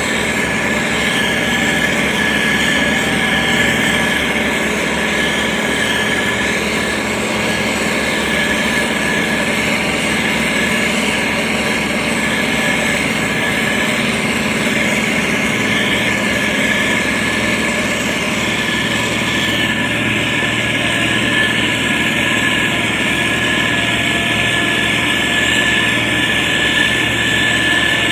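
Diesel engine of a SANY STG190C-8S motor grader running steadily under work, with a constant high whine over the engine noise.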